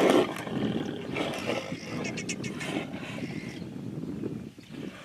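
Tigers growling and snarling in a fight, in harsh, rough bursts, loudest at the start and quieter toward the end.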